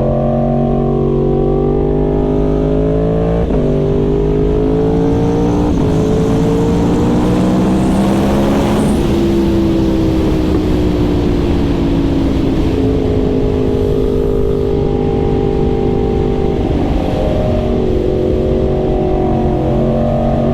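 Yamaha R1 sport bike's crossplane inline-four engine under way: it revs up, drops in pitch at an upshift about three and a half seconds in, pulls up again to a peak just under halfway through, then eases off and runs at a steadier, lower pitch.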